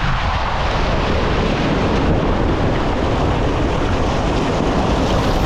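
Loud, steady rush of river water churning and splashing against a Toyota RAV4 as it drives through a three-foot-deep river crossing.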